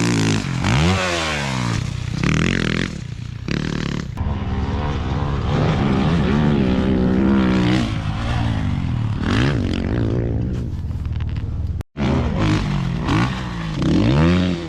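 Dirt bike engine revving hard, its pitch climbing and dropping again and again with throttle and gear changes as the bike rides the dunes. There is a brief break in the sound about twelve seconds in.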